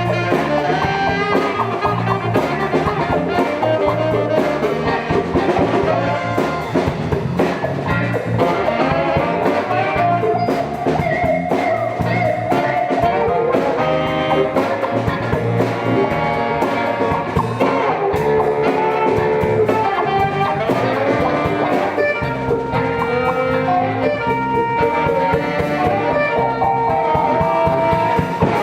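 A live band plays an instrumental jazz-funk tune with horns, guitar and drum kit.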